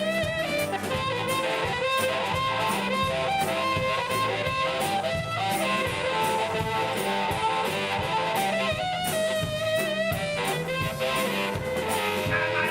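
A live band playing an instrumental passage: guitar and drum kit keep a steady beat under a lead melody of held, bending notes.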